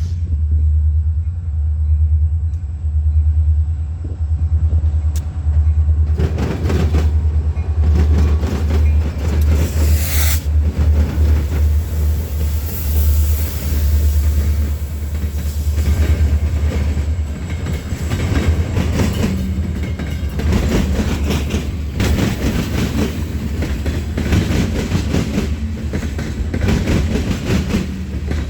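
A train rolling past, with a dense clatter of wheels on the rails starting about six seconds in, over a steady low rumble.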